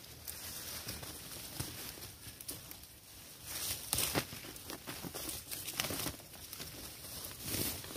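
Leaves rustling and twigs crackling in irregular bursts as branches of a leafy shrub are pushed aside and handled, the loudest bursts about four and six seconds in.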